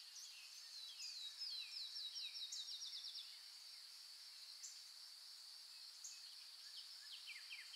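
Faint birdsong: a quick trill of about a dozen falling notes from about a second and a half in, then scattered chirps and another short trill near the end, over a thin, steady high-pitched tone.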